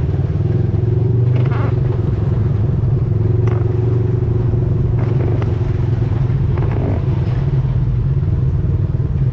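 ATV engine running at a steady speed while riding, with a few light rattles.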